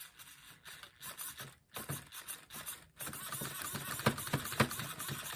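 LC Racing EMB-T 1/14 RC truggy worked on the bench: short faint steering-servo movements, then about three seconds in its brushless motor and drivetrain start running steadily with a clicking rattle, wheels spinning free.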